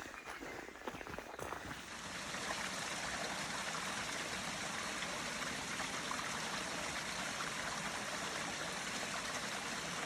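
A forest stream running: a steady rush of flowing water that comes up about two seconds in, with a few footstep clicks at the start.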